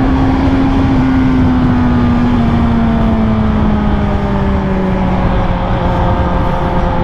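Motorcycle engine running at a steady cruise under heavy wind rush, its pitch easing slowly downward as the bike gently slows.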